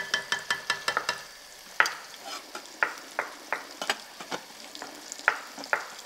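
Pieces of veal and onion frying in a pot on high heat as they are stirred, a faint sizzle under sharp knocks and taps from the spoon on the pot and a kitchen knife on a wooden cutting board. A quick run of taps comes in the first second, then single knocks every half second or so.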